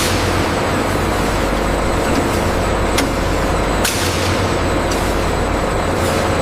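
Industrial machinery running steadily, a loud even mechanical noise over a low hum, with two sharp clicks about three and four seconds in.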